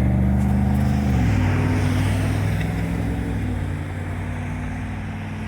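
GO Transit diesel locomotive engine running as the train passes and moves away. Its steady engine note drops in pitch about a second in, then fades.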